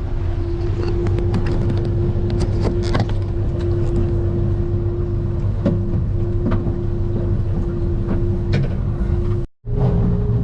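Boat's outboard engine running steadily at low speed, a constant hum over a low rumble, with occasional light knocks and rattles. Near the end the sound drops out for a moment and comes back with the hum pitched slightly higher.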